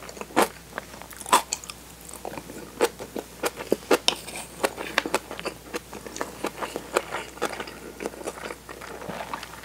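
Close-up chewing of a mouthful of rice with kimchi and tofu: a steady run of short crunchy clicks and mouth noises.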